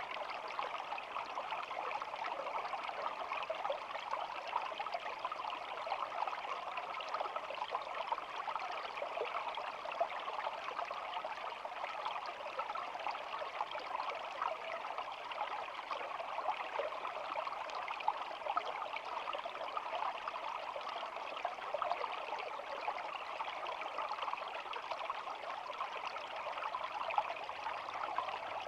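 A shallow stream babbling and trickling steadily.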